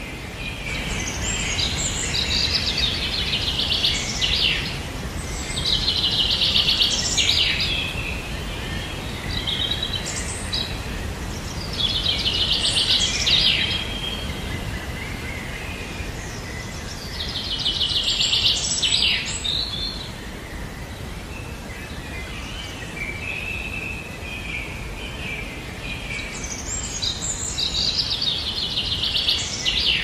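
A songbird singing a rapid trilled phrase, about five times, with pauses of several seconds between phrases, over a steady low background rumble.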